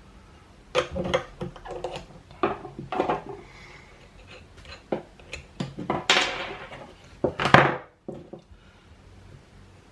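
Irregular clinks and knocks of skateboard hardware being handled: a wheel, its bearings, speed washers and axle nut being fitted onto a truck axle and turned by hand. The loudest clatter comes about six and seven and a half seconds in.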